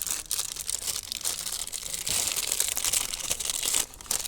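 Plastic packaging being crinkled and torn open by hand, an irregular crackling that is busiest in the second half.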